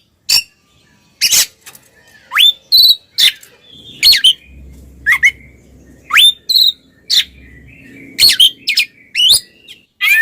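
Oriental magpie-robin (kacer) singing loudly: clear whistles that slide steeply upward, mixed with harsh rasping notes, in short phrases about every half second.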